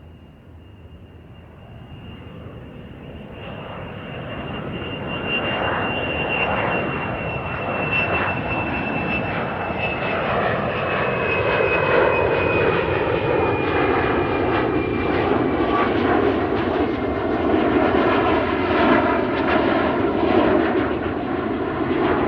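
An aeroplane's engines growing louder over the first few seconds and then staying loud, with a high whine that slowly falls in pitch.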